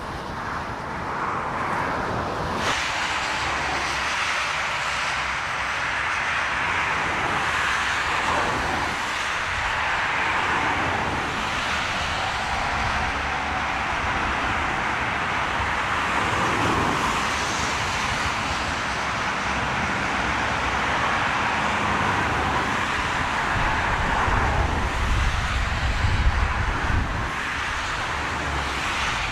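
Jet airliner engine noise, a steady hiss that jumps louder and brighter about three seconds in. A low rumble swells near the end.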